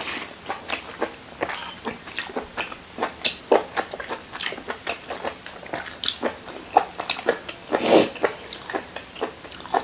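A person chewing and smacking their lips while eating soy-braised salmon head, a run of small clicks and smacks, with one louder smack about eight seconds in.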